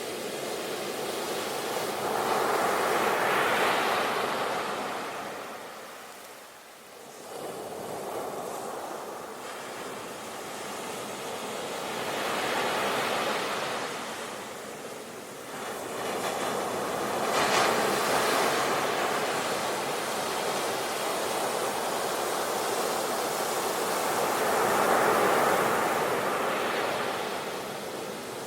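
Sea waves breaking and washing onto the shore, swelling and subsiding in about four surges.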